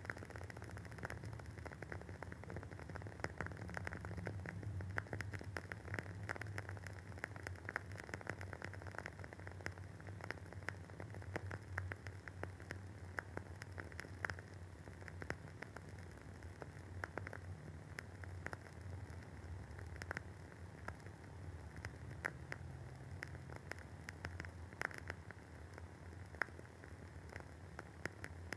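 Wooden wick of a WoodWick candle burning with constant, irregular soft crackling and popping, a scatter of small clicks, over a faint steady low hum.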